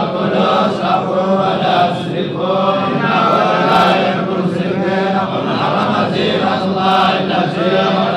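Quranic recitation chanted by a man in the melodic tajwid style, with long held and gliding notes that run without a pause.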